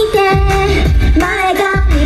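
Japanese idol pop song performed live: high female voices singing the melody over a loud backing track with a heavy, pulsing bass beat.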